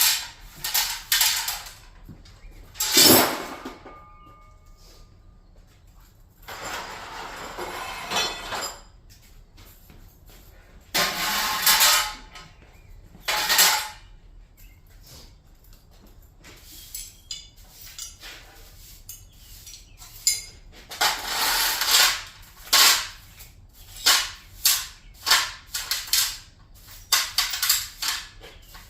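Garage door parts being dismantled and handled: irregular metallic clanks, knocks and rattling scrapes. There is one sharp bang about three seconds in and a quick run of short knocks near the end.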